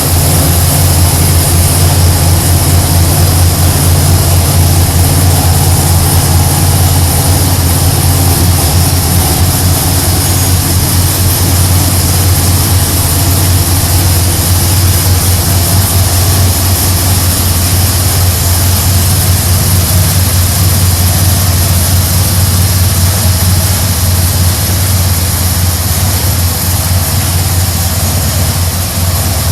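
Big-block Chevrolet V8 in a pickup truck, built to over 700 hp, idling steadily at a loud, even, deep exhaust note.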